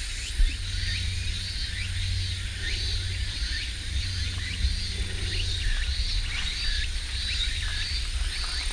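Outdoor night-style ambience of animal calls: short rising chirps repeating about twice a second, over a steady high whine and a low rumble.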